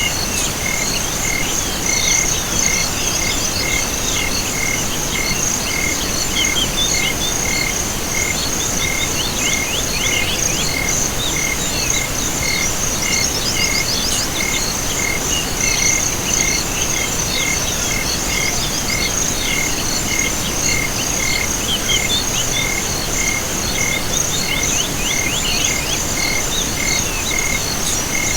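Chorus of crickets and frogs: a steady high insect trill, an evenly repeating chirp about three times every two seconds, and scattered bursts of quick calls.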